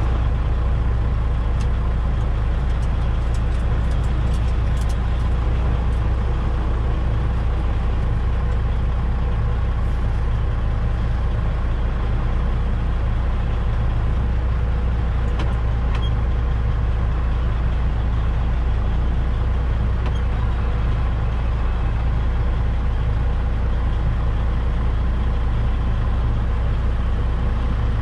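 Semi truck's diesel engine running steadily with a low, even rumble, with a few faint clicks.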